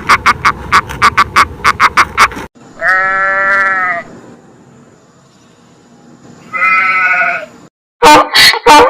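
Two long bleats from a farm animal, about four seconds apart. Before them comes a fast run of sharp, evenly spaced clicking calls, and near the end a different run of loud pulsed calls starts suddenly.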